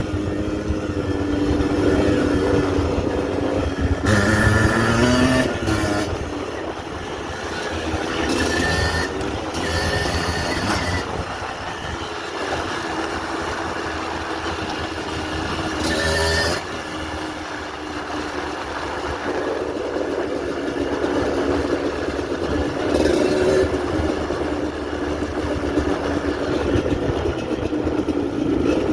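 Yamaha DT 125 single-cylinder two-stroke engine running under way off-road, its pitch rising and falling as the throttle is opened and closed.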